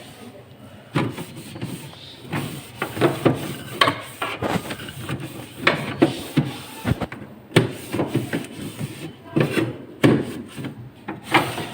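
A wet cloth rubbing and wiping the plastic inside of a refrigerator, with irregular knocks and scrapes against the fridge walls.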